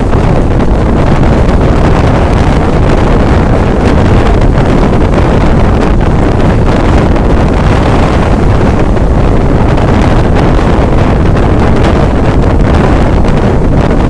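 Loud, steady wind buffeting the microphone from a moving passenger train, over a dense low rumble of the train running.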